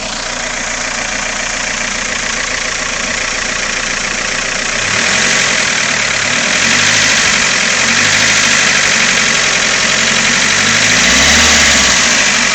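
Freshly rebuilt Toyota 4A-GE 20V 1.6-litre twin-cam four-cylinder engine running with a ticking noise, which the owner suspects comes from either the valves or the VVT pulley. About five seconds in the engine note shifts and grows a little louder, its pitch rising and falling slightly.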